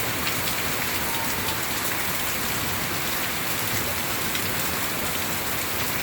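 Steady rain falling in a Florida summer storm: an even, continuous hiss with a few faint ticks of single drops.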